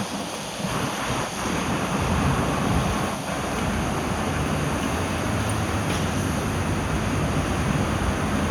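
Steady rushing noise of a car driving through rain on a wet road, with a low rumble underneath.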